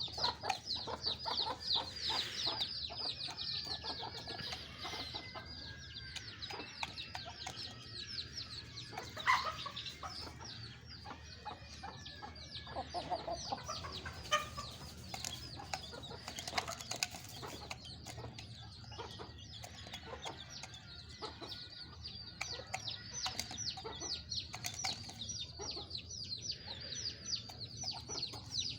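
Many birds chirping in a dense, continuous chatter of short, high, falling chirps, with a few louder calls standing out.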